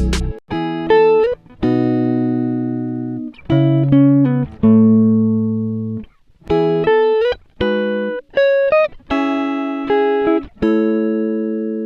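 Background music: plucked guitar notes played one after another, each ringing and fading, with some notes sliding up in pitch.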